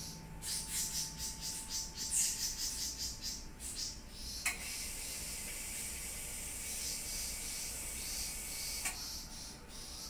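Backyard birds chirping in quick repeated high calls. About halfway through, a steady high-pitched buzz cuts in abruptly and stops just as suddenly about four seconds later.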